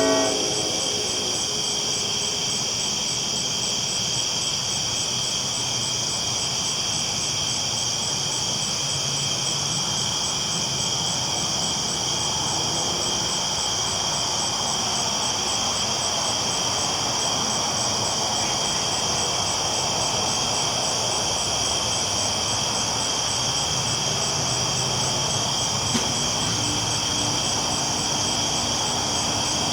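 Train rumbling steadily along the tracks, under a steady high-pitched chorus of night insects. The tail of a train horn fades out in the first second, and a low steady tone comes in near the end.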